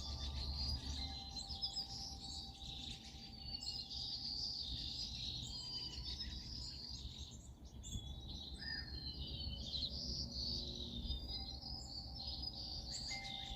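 Several songbirds chirping and singing at once in a dense, continuous chorus of short high calls and trills.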